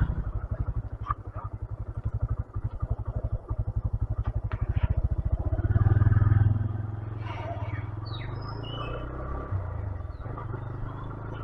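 Single-cylinder motorcycle engine idling with a rapid, steady putter that grows louder for a moment about six seconds in.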